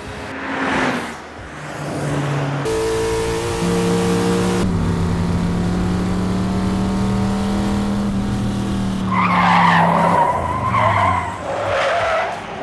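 Cartoon sound effect of a vehicle engine running at a steady pitch, with a whoosh about a second in and skidding tyre screeches near the end.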